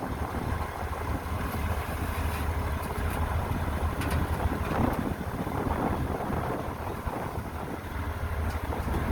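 Heavy earthmoving machinery's diesel engine running steadily with a low rumble, with wind noise on the microphone.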